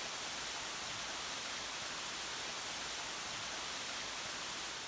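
Steady, even rushing noise of water in the rain, beginning to fade at the very end.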